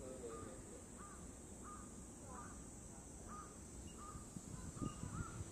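A bird calling over and over in short, arched notes, about two to three a second, faint over a steady high hiss. A few low bumps come near the end.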